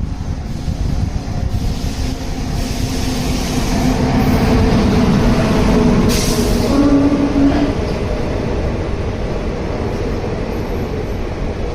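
A train running on the rails: a steady low rumble with faint held tones over it, a brief hiss about six seconds in and a short tone soon after.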